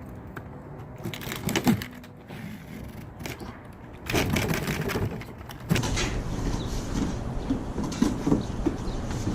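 A cardboard shipping box being opened and handled: scraping, rustling and scattered knocks. The handling grows louder and busier about four seconds in.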